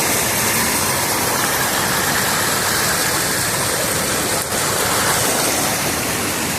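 Waterfall pouring steadily: an even, loud rush of falling water.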